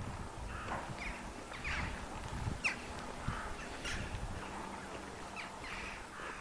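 A flock of birds calling, with many short, harsh caw-like calls overlapping throughout.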